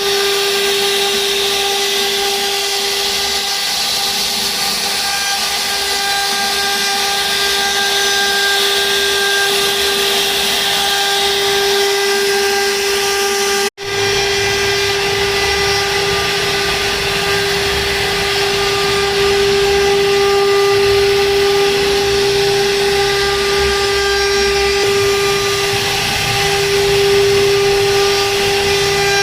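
CNC machine spindle running at constant speed with a steady high-pitched whine over a constant hiss. The sound breaks off for an instant about halfway through.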